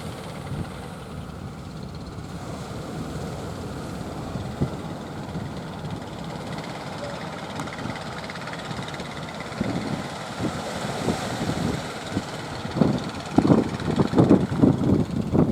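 Steady rumble of a fishing boat's engine running, growing into louder uneven surges over the last few seconds.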